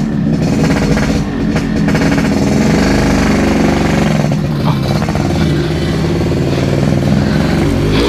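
Yamaha RX-King 135cc two-stroke single-cylinder motorcycle engine running with its characteristic two-stroke exhaust note.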